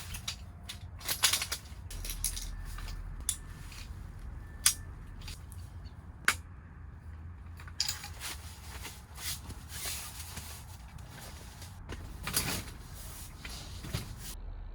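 Camping gear being handled and set down: irregular sharp clicks and knocks, the loudest about a second in, near the middle and near the end, with rustling between them.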